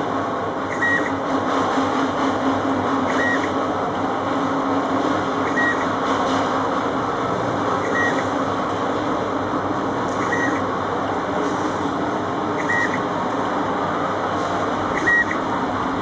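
Wire-cutting machine running with a steady whir and rattle, and a short high beep repeating about every two and a half seconds.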